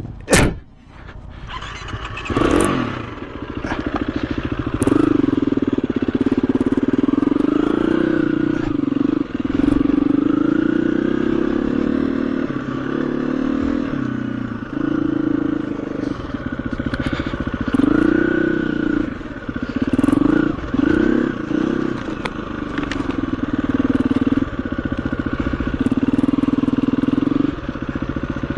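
Motorcycle engine running at low speed and being revved up and down repeatedly as the bike is ridden slowly. A sharp knock comes right at the start.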